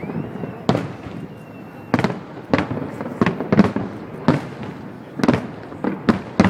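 Aerial fireworks bursting in quick, irregular succession: about ten sharp bangs, each trailing off in a short rumble.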